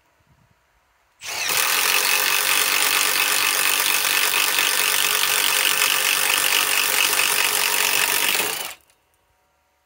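Milwaukee M12 FUEL 3/8-inch stubby impact wrench hammering continuously as it drives a 1 1/8-inch bore bit. It starts about a second in, runs steadily for about seven and a half seconds, and stops suddenly near the end.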